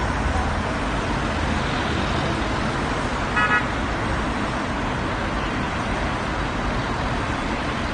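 Steady road traffic noise, with a short car horn toot about three and a half seconds in.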